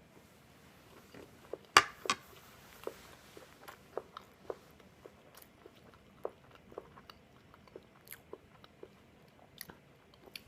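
Close-up mouth sounds of a person chewing and biting waffle: a run of small, irregular crunchy clicks, with two sharper, louder clicks about two seconds in.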